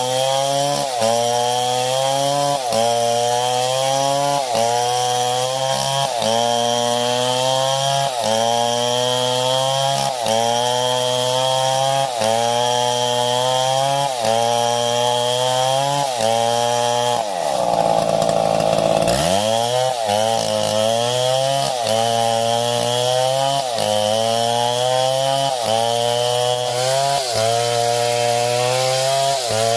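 Chainsaw engine running under load, its pitch rising and dropping back in a steady cycle about every second and a half. About two-thirds of the way through, the engine slows sharply and then picks up again.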